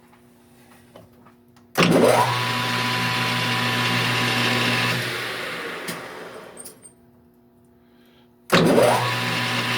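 Lathe spindle motor switched on, whining up to speed within a fraction of a second and running steadily for about three seconds, then coasting down to a stop; it is switched on again and spins up the same way near the end.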